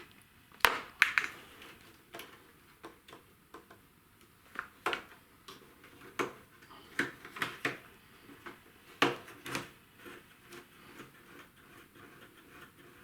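Irregular clicks and knocks of hard objects being handled and set down, some sharp, the loudest about a second in and again near nine seconds.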